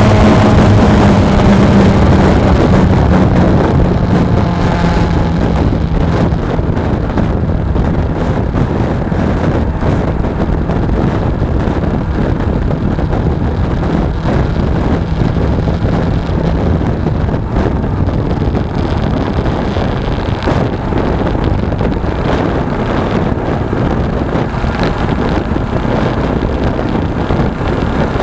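Suzuki V-Strom 250's parallel-twin engine running on the move, its pitch falling over the first few seconds as the bike slows. After that, steady road and wind noise on the camera dominates, with the engine tone faint beneath it.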